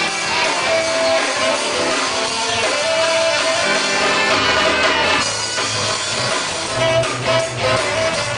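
Rock and roll played on electric guitar with a drum kit, the guitar strumming and picking steadily.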